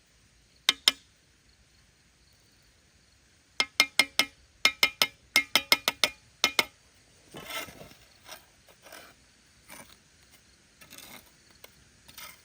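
A series of sharp, ringing knocks: two close together near the start, then about a dozen in quick succession, roughly four a second. Softer, scuffing or scraping sounds follow.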